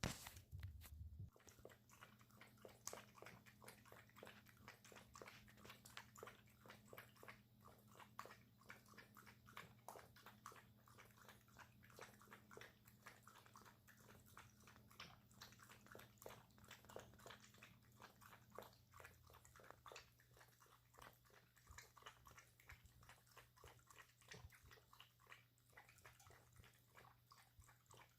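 A puppy lapping water from a bowl: a quick run of small clicks, one after another.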